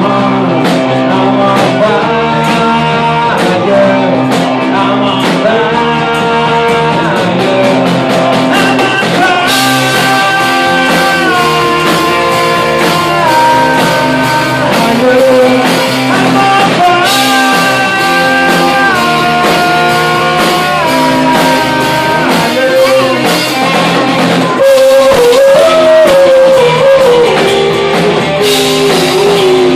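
Rock band playing a song: guitar with a sung melody over it.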